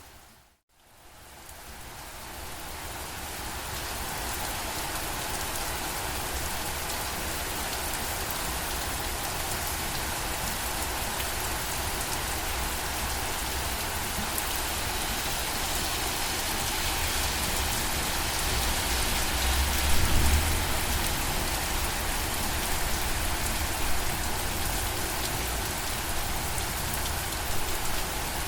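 Steady rain falling. It dips to a moment of silence just after the start, then fades back in over a few seconds. A brief low rumble comes about two-thirds of the way through.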